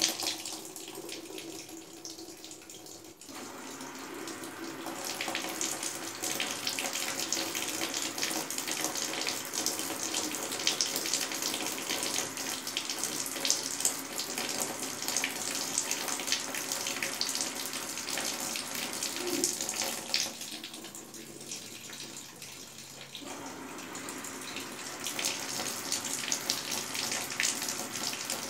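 Brastemp Advantech Wash washing machine taking in water, a steady rush of water running into the drum. It eases off twice for about three seconds, about a second in and around twenty seconds in.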